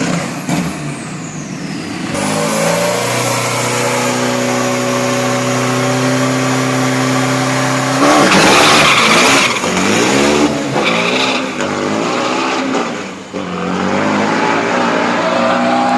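Turbocharged 3.0-litre pickup engine held at high revs, then from about eight seconds in the revs surge and waver with tyre noise as the rear wheels spin. The burnout won't take hold: the tyres just slip.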